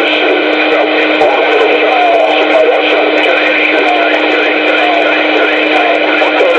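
CB radio channel audio heard through the receiver: loud static with a steady low whistle, and garbled, wavering voices coming through now and then.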